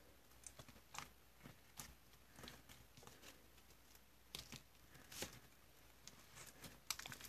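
Slime being squished and pressed by hand, giving faint, irregular sticky pops and clicks, with a quick run of them near the end.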